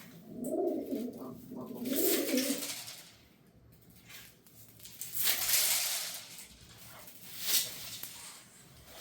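A pigeon cooing, two low phrases in the first three seconds. About five seconds in comes a brief noisy rustle, then a short click near the end.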